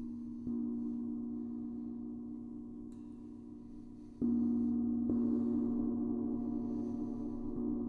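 A gong struck softly several times, its dense, low, sustained ring slowly fading between strokes. The strokes come about half a second in, then after a long swell around four seconds in (the strongest) and again a second later, with a faint touch near the end.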